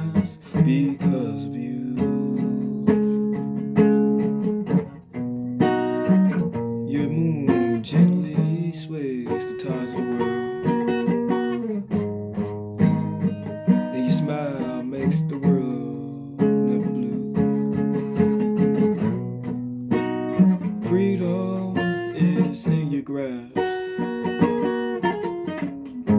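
Guitar playing an instrumental passage of picked notes and chords, with no singing.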